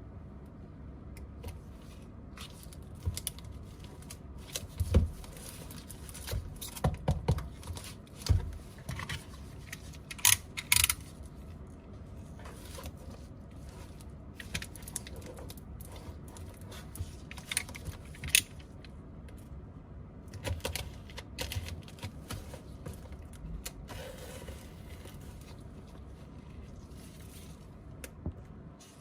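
Small tools and phone parts being handled on a work surface: irregular clicks, taps and light scrapes, with a cluster of sharper knocks about five to eleven seconds in.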